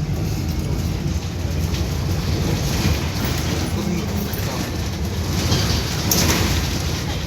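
City bus with a holed exhaust running under way, heard from inside the cabin as a steady low rumble. A brief hiss comes about six seconds in.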